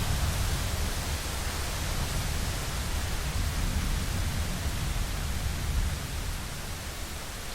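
Heavy rain falling steadily as an even hiss, with the low rumble of thunder dying away underneath during the first few seconds.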